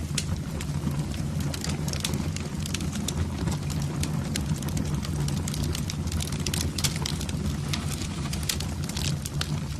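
Fire burning in a fireplace, crackling with many quick irregular pops over a steady low rumble.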